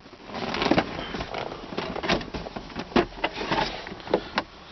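Handling of a car's interior plastic storage compartments: a run of irregular clicks and knocks with rubbing and rustling.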